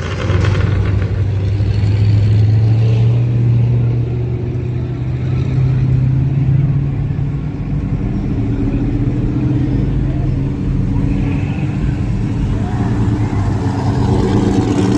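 Car engine running with a steady low note, rising a little over the first couple of seconds and then holding.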